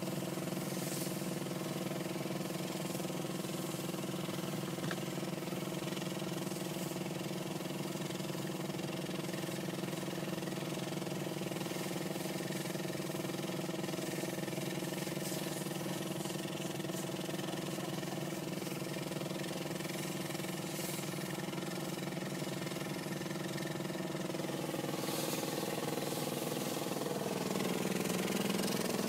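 A vehicle engine idling steadily, with a slight rise in level near the end.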